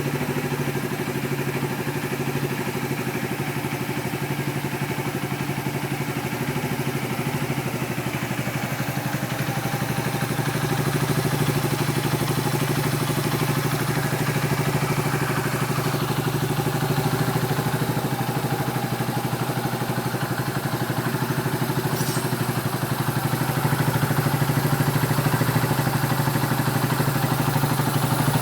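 Honda FTR223's air-cooled single-cylinder engine idling steadily, running without the cam-chain ticking now that its cam chain tensioner has been replaced. It gets a little louder about ten seconds in.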